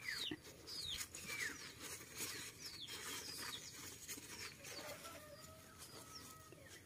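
Faint bird chirps, short falling notes repeated roughly every second, over soft rustling of tissue paper being unwrapped in a cardboard box.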